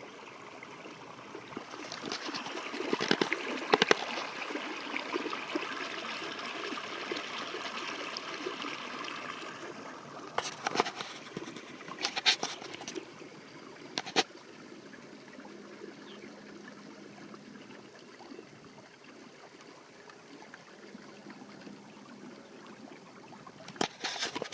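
Water trickling and splashing along the hull of a kayak under way on a 30 lb thrust electric trolling motor, louder for several seconds near the start, with a few sharp knocks scattered through.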